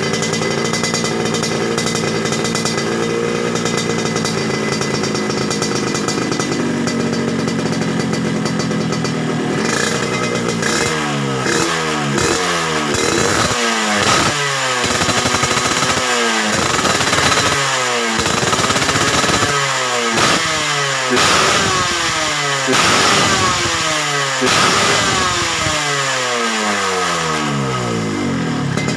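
Yamaha RX-series two-stroke motorcycle with an aftermarket racing exhaust, idling steadily and then, from about ten seconds in, revved over and over in short throttle blips, each one rising and falling in pitch.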